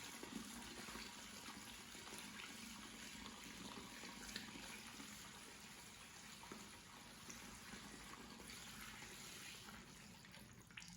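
Faint, steady trickle of water, barely above near silence.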